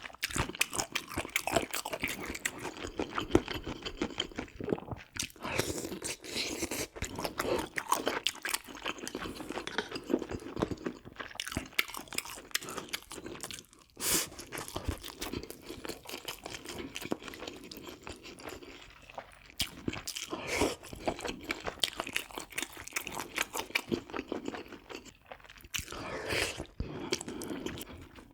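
A person eating close to the microphone: steady chewing with crunching and many small wet clicks, from a meal of spicy braised pork ribs with bean sprouts.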